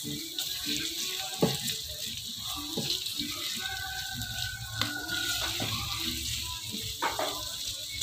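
Sliced shallots sizzling as they fry in a little hot oil in a wok, with a steady hiss. A silicone spatula stirs them, giving a few short knocks and scrapes against the pan.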